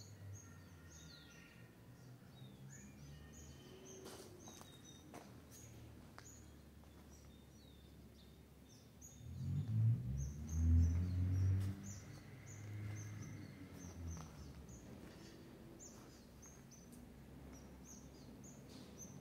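Small birds chirping in short repeated calls over faint outdoor background noise. A low rumble swells up for a few seconds about ten seconds in, then fades.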